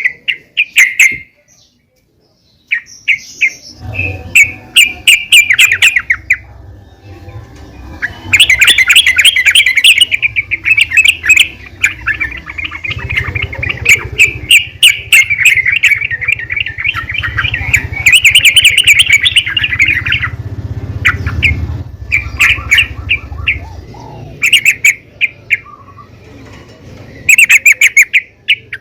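Yellow-vented bulbul (trucukan) calling: bursts of rapid, bubbly chattering notes, with a long unbroken run through the middle and shorter phrases near the start and end. A low rumble sits underneath for much of it.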